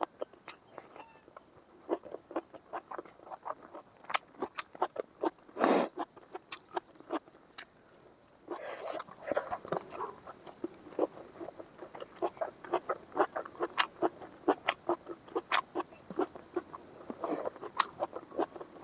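Close-up eating sounds: a person chewing chicken dry fry and rice, a steady run of short wet mouth clicks and smacks, with a louder noise about six seconds in and another near nine seconds.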